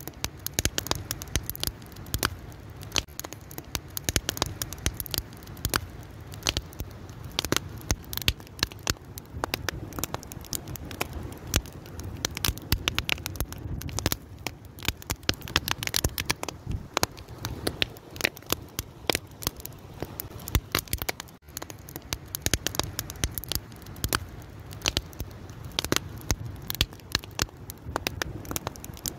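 Wood fire crackling steadily, with many irregular sharp pops and snaps over a low rumble of burning.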